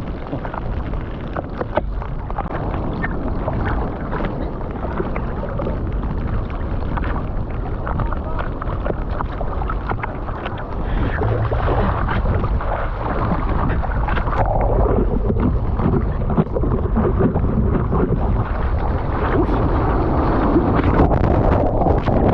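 Rushing water and surf noise around the microphone with wind buffeting it, swelling louder about halfway through and again near the end.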